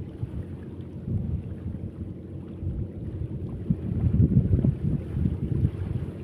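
Wind buffeting the microphone outdoors, a low rumble that comes in uneven gusts and is strongest a little past the middle.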